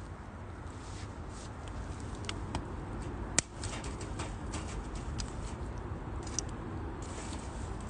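Firewood burning in a UNIFLAME Nature Stove Large wood stove: scattered crackles and snaps over a steady low rumble, with one sharp pop about three and a half seconds in.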